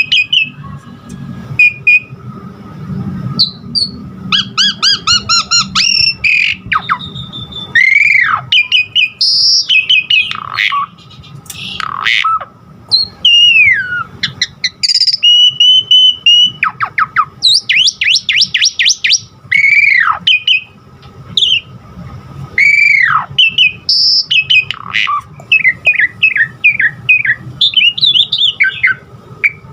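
Pied starling (jalak suren) singing a long, loud, varied song: clear whistles, sharply falling whistled calls, fast rattling trills and one held whistle of about two seconds midway, mixing in imitations of other birds' calls.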